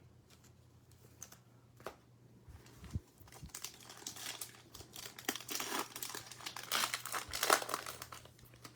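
Plastic trading-card pack wrapper crinkling as it is handled and torn open, starting about three seconds in and loudest near the end.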